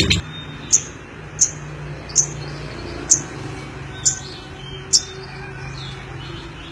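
Lovebird giving six short, sharp, high chirps, one every second or so, over a faint steady hum.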